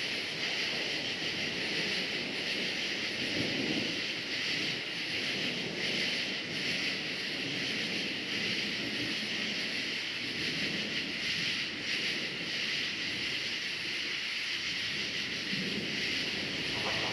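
A chorus of crickets chirring steadily and unbroken, with a low, uneven rumbling noise underneath.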